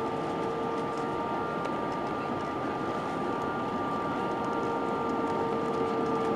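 Steady cabin noise inside an Airbus A320 airliner: a constant rush of airflow under the even hum of its IAE V2500 turbofan engines, with several held tones.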